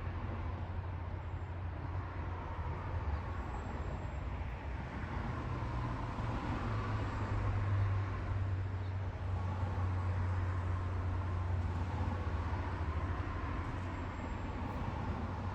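A steady low vehicle engine hum over a haze of road-like noise, growing somewhat louder through the middle.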